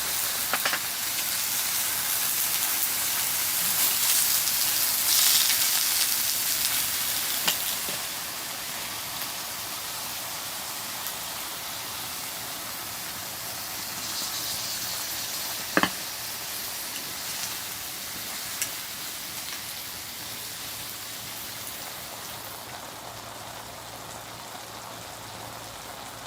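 Firewood burning with a steady hiss and a few scattered sharp pops, the loudest about sixteen seconds in. The hiss grows fainter after about eight seconds.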